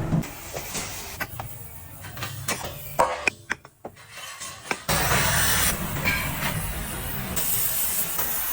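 Metalworking shop noise: machinery running with a steady hiss, and several sharp metal clanks between about one and five seconds in. The loudest clank comes about three seconds in. The background changes abruptly twice, as from one machine to another.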